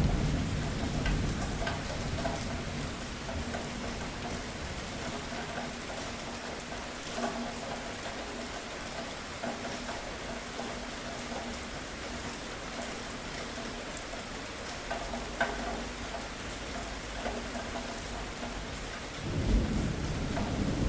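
Steady rain falling, with scattered louder drop hits throughout. A low rumble of thunder dies away at the start, and another rumble of thunder rolls in near the end.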